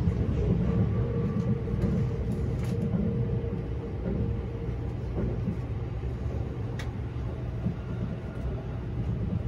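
Cabin noise inside a moving E257 series electric train: a steady low rumble of the wheels on the rails, with a steady hum that fades about halfway through and a few faint clicks.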